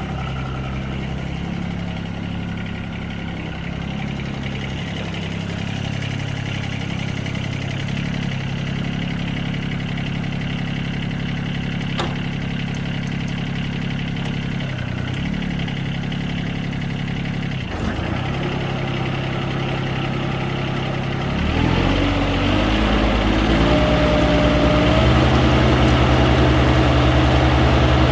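John Deere 2305 HST compact tractor's three-cylinder diesel engine idling steadily. After about twenty seconds it is throttled up and runs faster and louder.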